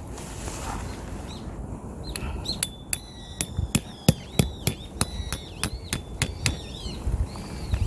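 A quick run of hammer blows, about three or four a second, starting about two seconds in and stopping shortly before the end, with a high ringing tone between the strikes.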